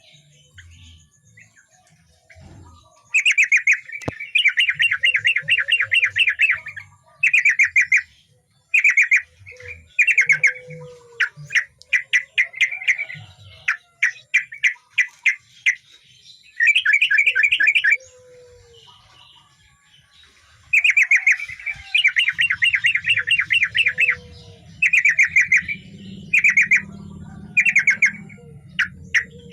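Yellow-vented bulbul (trucukan) singing loud, energetic song: runs of rapid chattering notes, each phrase about one to three seconds long, repeated with short pauses between.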